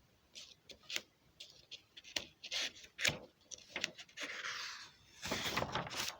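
Irregular rubbing and scraping sounds broken by sharp clicks, ending in a longer, louder rub near the end.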